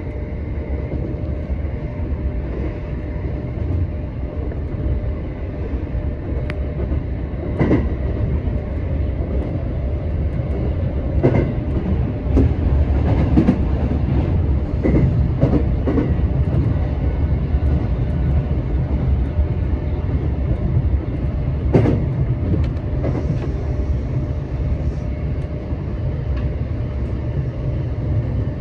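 Electric commuter train running along the line, heard from inside the leading car: a steady low rumble of wheels on rails, with a few sharp clicks at irregular intervals.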